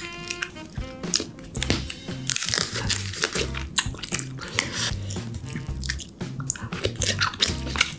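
Close-miked biting and chewing of steamed king crab meat, with many sharp wet clicks and small crunches throughout, over background music.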